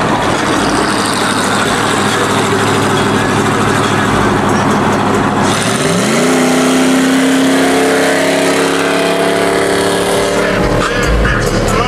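Wind and road noise through an open car window as a car runs alongside on the highway. About six seconds in, the neighbouring car's engine revs up quickly and then holds a steady pitch as the car accelerates away.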